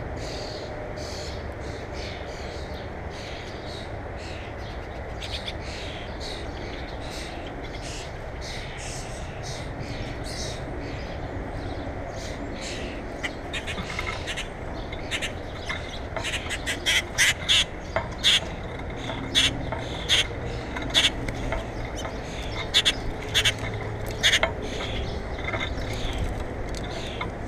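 Birds at a feeder giving short, sharp calls, sparse at first and then a loud run of them about one or two a second through the second half, over a steady low background rumble.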